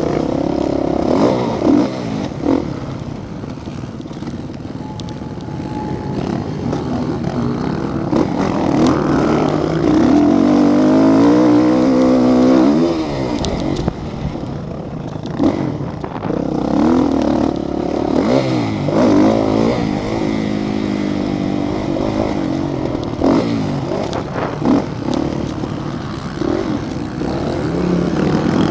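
Motocross motorcycle engines revving, their pitch repeatedly rising and falling with throttle and gear changes; more than one bike is heard at once, loudest about ten to thirteen seconds in.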